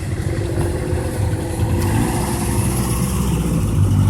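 A car engine running with a low, steady rumble, growing a little louder near the end as the vehicle comes closer.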